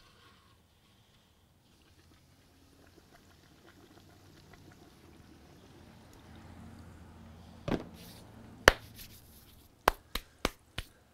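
Hot frying oil bubbling faintly around a breaded chicken-fried steak, building up over several seconds. Several sharp clicks and knocks come near the end.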